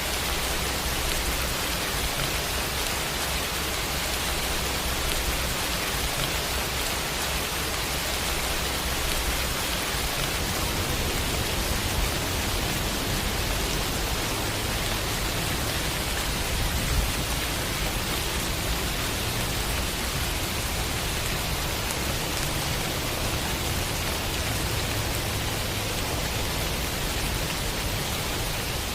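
Steady heavy rain: a dense, even hiss of falling drops with a low rumble underneath, and one brief louder drop or tap about seventeen seconds in.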